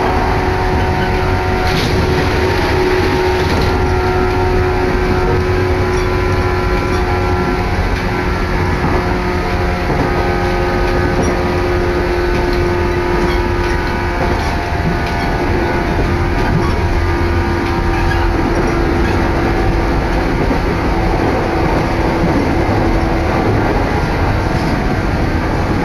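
Electric commuter train on the JR Sanyo Line running steadily, heard from inside the passenger car: a continuous rumble of the running train with a steady hum of several tones over it.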